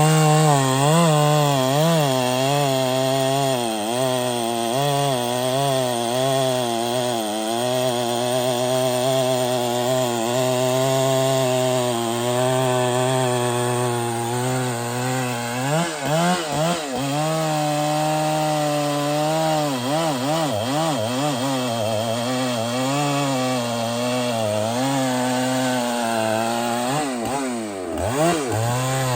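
Large two-stroke chainsaw cutting through a big tree trunk under full load, its engine pitch wavering constantly as the chain bites, with brief dips in engine speed about halfway through and again near the end.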